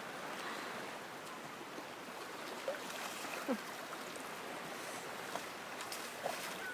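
Steady wash of sea water and surf, with a few faint distant voices calling out now and then.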